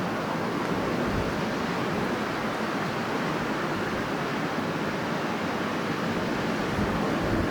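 Strong wind blowing in a steady, unbroken rush.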